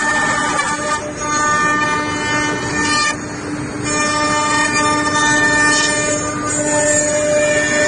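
Woodworking CNC router spindle running at speed and machining, a steady whine with several overtones over a rushing noise. About three seconds in, the whine drops out for under a second, leaving only the noise.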